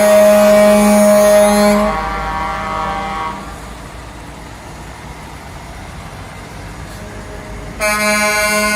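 Truck air horn blowing one long, steady blast that stops about two seconds in. Another long blast starts near the end, with a low engine rumble in between.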